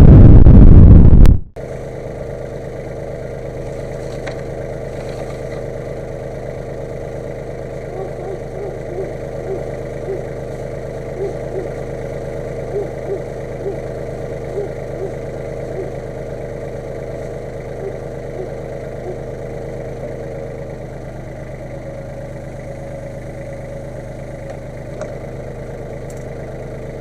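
A very loud burst of noise for about a second and a half at the start, then an engine running steadily at idle.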